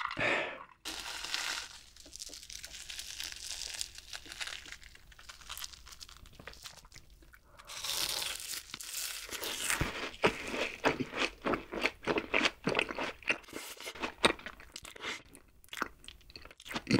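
Close-up eating sounds of a deep-fried, crumb-coated sweet potato cheese ball. Several seconds of quieter rustling come first. About eight seconds in there is a loud crisp bite, followed by rapid crunchy chewing to the end.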